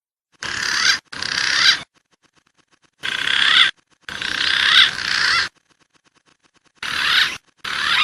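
Looped recording of wild pigeon calls played as a bird-trapping lure. Short warbling, whistled phrases come in pairs about every three seconds, each cut off abruptly, with silence between.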